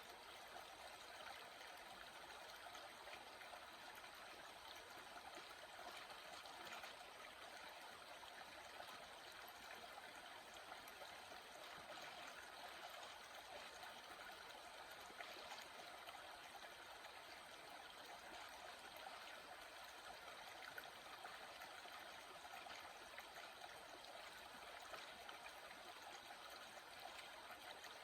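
Water stream flowing steadily: a soft, even rush of running water.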